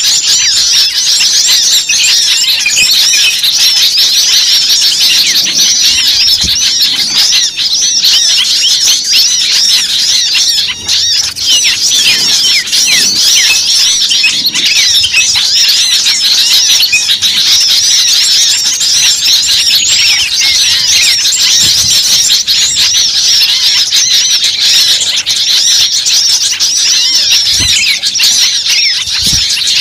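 A noisy chorus of many small birds calling over each other without pause: dense, rapid, high chirps and squeaky notes. This is a bird-luring recording of small birds in an agitated commotion, with little spiderhunter calls among the mix.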